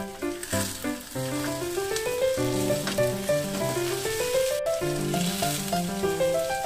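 Ham and egg-coated bread sizzling in a frying pan, with a melody of steady notes as background music over it.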